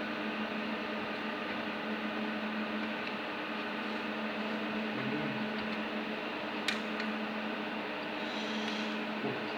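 Steady electric fan whir with a constant hum, and a single sharp click about seven seconds in.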